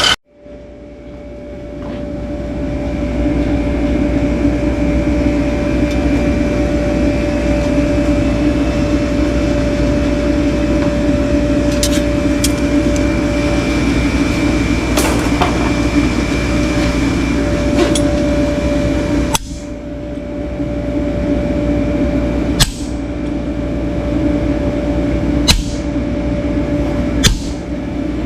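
Electric power tool motor running steadily with a constant hum. It builds up over the first few seconds, dips briefly about two-thirds of the way through and comes back, with a few short clicks near the end.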